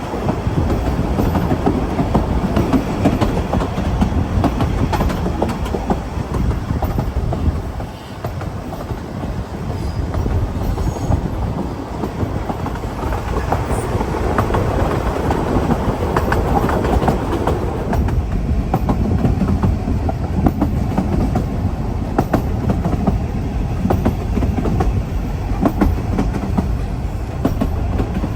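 Narrow-gauge Ffestiniog Railway train running: a steady rumble of wheels on the rails, with frequent clicks as they cross rail joints.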